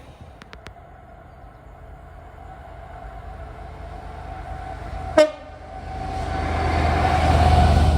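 Freight train on the main line, its locomotive giving one very short horn toot about five seconds in, then a rumble that swells as the train draws closer.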